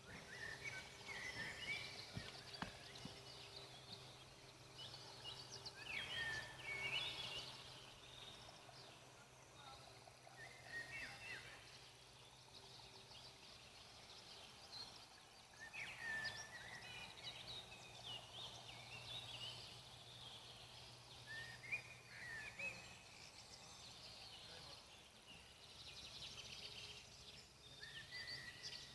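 A songbird singing short warbled phrases, about six over the stretch, each a few seconds apart, over a faint steady hiss.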